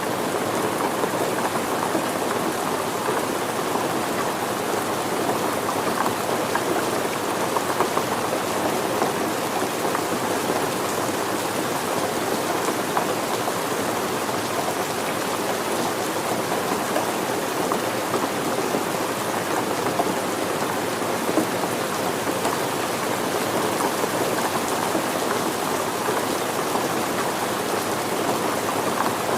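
Steady rain falling, an even hiss of countless drops with a fine patter on surfaces.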